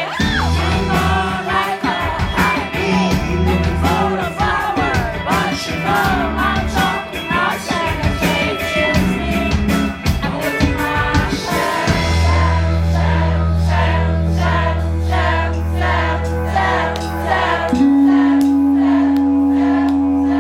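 Rock band playing live with a male lead singer. From about twelve seconds in, long held bass notes sit under the vocal.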